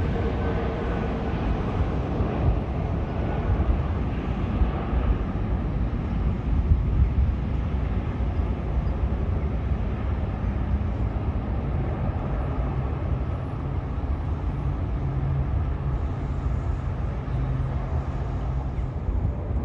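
Jet airliner engines running, a steady noisy rumble with a faint whine; a low hum comes in about halfway through and fades near the end.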